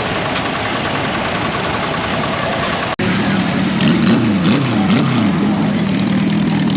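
Engines running as small tractors and lawn tractors parade past. After a cut about three seconds in, a steady engine note whose pitch swings up and down a few times as the engine is revved.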